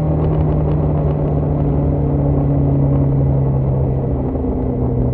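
Shelby GT350's 5.2-litre flat-plane-crank V8 exhaust droning steadily on light throttle while the car decelerates, the trick owners use to draw pops and crackles from the stock exhaust. A few faint crackles come in about the first second.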